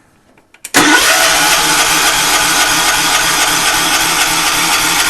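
A John Deere 212's 12 hp Kohler single-cylinder engine starting on the key about three-quarters of a second in, after a click or two, then running loud and steady.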